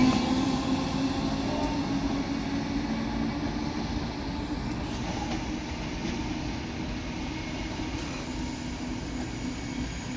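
Electric multiple-unit passenger train pulling away and receding, its steady motor hum dying out within the first few seconds while the rumble of its wheels fades slowly into the distance.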